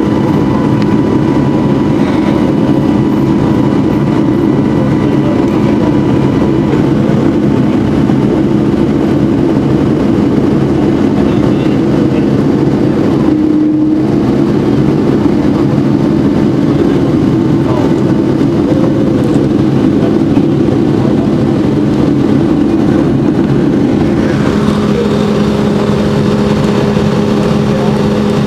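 Boeing 757's Rolls-Royce jet engines running, heard from inside the cabin as a steady loud hum with whining tones. About 24 seconds in, the pitch mix shifts and a new higher tone joins, as the engine power changes.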